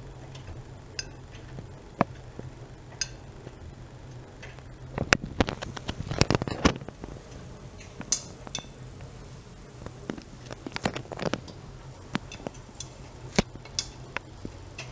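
Privileg Dynamic 7420 washing machine running a wash: a steady low hum with irregular clicks and clinks from the tumbling load, coming in thick clusters about five seconds in and again about ten seconds in.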